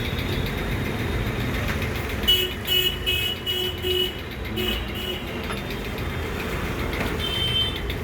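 Vehicle horn tooting in a quick string of about eight short blasts, then once more a couple of seconds later, over the steady low rumble of a running engine.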